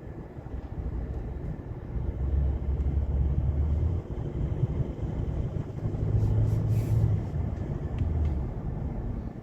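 Low rumble of a car driving in strong wind, swelling about two seconds in and again around six seconds.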